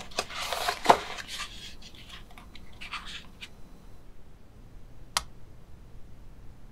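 A molded paper-pulp egg carton being opened by hand: scraping and rustling of the cardboard, with a sharp snap about a second in as the lid tab pulls free, and a shorter rustle around three seconds. A single sharp click comes a little after five seconds.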